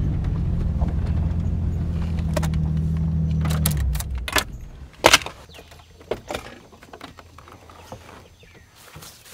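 A vehicle engine running steadily, then shut off abruptly about four seconds in. It is followed by a few sharp clicks and knocks, like keys and a door.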